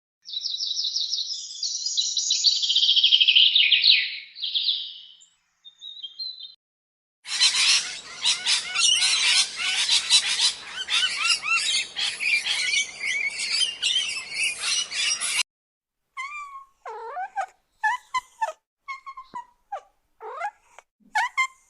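Birds chirping: first a fast, high trill, then a dense chorus of many chirping birds that cuts off abruptly. After that come spaced single calls that arch up and down in pitch.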